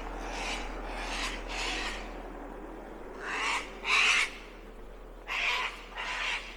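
A bird giving harsh, rasping calls in pairs, each call short. The loudest pair comes about midway, with another near the end.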